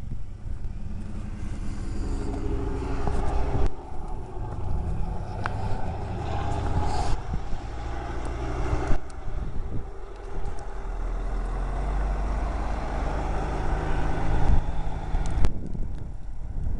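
Motor vehicle engine running with a low, steady hum, broken off abruptly a few times.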